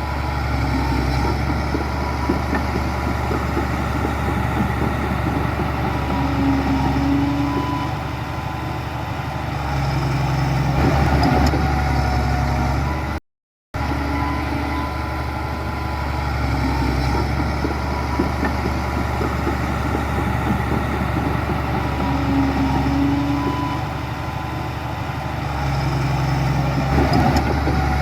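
Heavy diesel engine of earthmoving machinery running steadily, swelling louder twice, with the sound cutting out for a split second about halfway.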